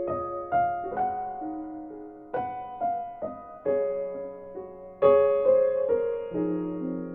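Soft, slow solo piano music: single notes and chords struck every half second or so, each ringing and fading.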